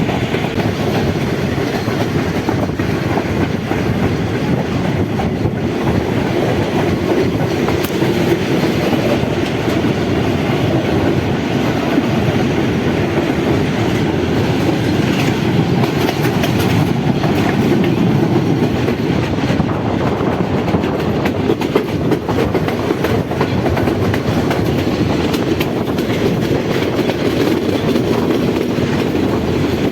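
Passenger train running along the track: a steady rumble with frequent clicks and knocks from the wheels on the rails.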